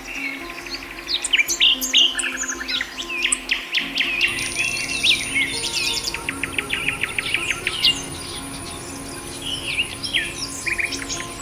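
A chorus of several small songbirds chirping and calling over one another, with quick trills and rapid runs of short notes. A thin steady high tone joins about four seconds in.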